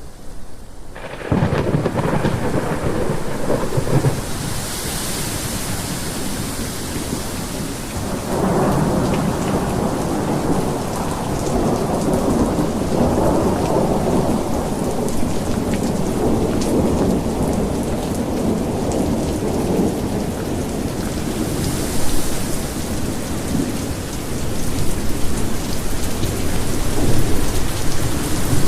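Heavy rain falling steadily, with thunder rumbling in long rolls, starting about a second in.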